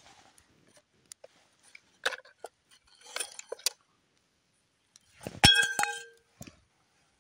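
Popcorn being tipped out of a metal camp pot: light rustles and clicks, then a sharp metal clank that rings briefly about five seconds in, followed by a few quick clinks.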